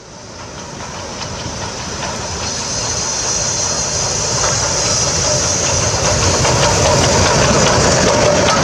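P36 steam locomotive running with its train and gathering speed, growing steadily louder: a strong steam hiss over the rumble and faint clatter of wheels on the rails.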